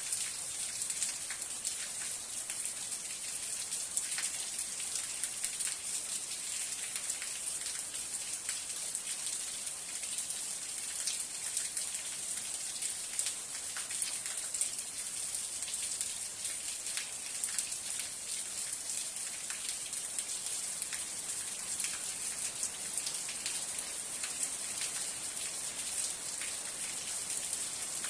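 Steady rain falling, a constant hiss full of many fine, distinct drop ticks on a surface.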